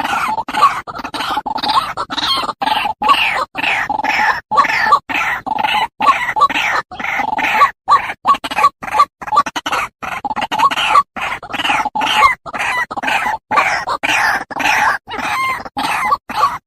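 Animal calls, short wavering chirps repeated over and over, broken up by frequent brief drops to silence.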